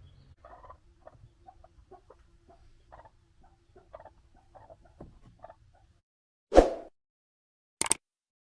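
Chickens clucking softly in a run of short calls. Then the sound drops out, followed by a loud thump and, about a second later, a short sharp double knock.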